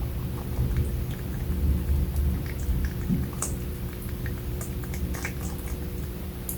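Rabbits chewing pineapple close to the microphone: scattered small crunchy clicks at irregular intervals over a steady low rumble.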